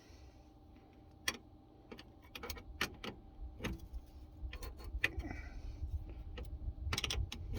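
Irregular metallic clicks and clinks of wrenches working the fuel-line fittings as a new fuel filter is tightened into place, over a low handling rumble. They come more often in the second half.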